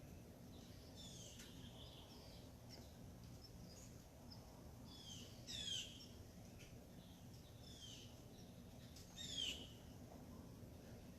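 Birds calling outdoors at dawn: clusters of quick, downward-sweeping calls come every few seconds, the loudest about midway and near the end, with fainter chirps between them over a faint low background hum.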